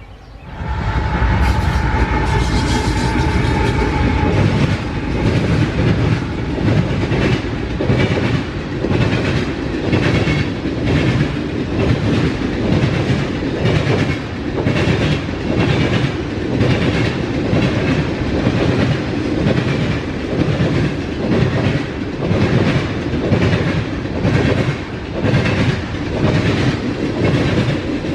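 CSX freight train B157 rolling past, loud from about half a second in, its wheels clicking in a steady rhythm over the rail joints. A steady tone sounds for the first few seconds.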